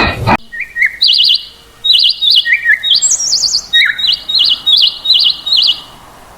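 A small songbird singing: a quick series of short, high warbling trills, about ten phrases, a few lower notes among them, stopping shortly before the end.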